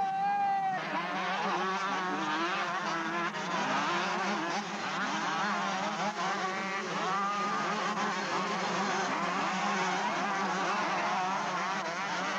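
Several motocross motorcycles racing, their engines revving up and down over one another. In the first second one engine holds a steady high note.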